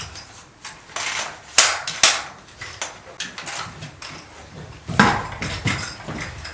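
A few sharp knocks and clatters of hard objects being handled, the loudest about one and a half, two and five seconds in.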